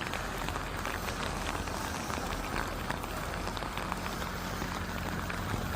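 Heavy rain falling on a car, heard from inside: a dense, steady hiss of drops with many small ticks.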